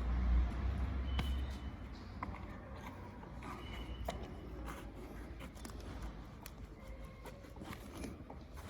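Light handling noises, scattered small clicks, taps and scrapes, as a rubber heated grip coated in grip adhesive is worked onto a motorcycle handlebar. A low rumble is heard in the first second and a half.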